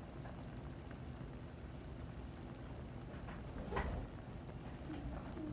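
Chicken adobo simmering in a pan: a steady bubbling hiss with scattered small pops, and one sharper click nearly four seconds in.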